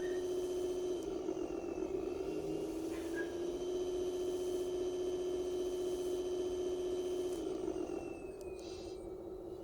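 1:14 scale MAN 8×4 RC dump truck running: a steady, high mechanical whine from its electric drive, wavering and dipping slightly in pitch about a second or two in, and dropping somewhat quieter near the end.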